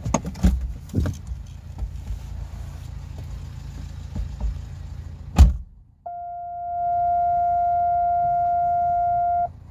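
Car engine idling, heard inside the cabin, with small clicks and knocks and one loud knock about five seconds in. The sound then drops out and a steady electronic beep tone fades in, holds for about three seconds and cuts off.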